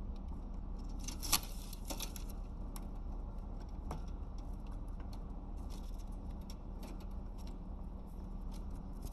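Caique parrot gnawing on a solid-wood perch stand with its beak: irregular small clicks and crunches, with a louder crackling burst a little over a second in.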